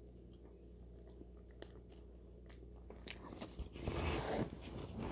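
Biting into and chewing a crunchy fried hush puppy close to the microphone: a few faint clicks, then crunching and chewing from about three seconds in, over a low steady hum.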